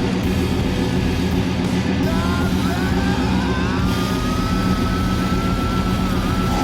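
Mustang V8 engines running and revving, with a whine that climbs in pitch about two seconds in and then holds steady.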